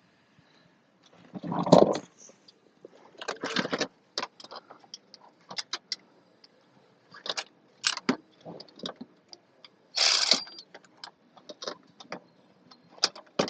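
Hand tools being handled: scattered metallic clicks, clinks and knocks, with a heavy thump about two seconds in and a short scraping rustle about ten seconds in.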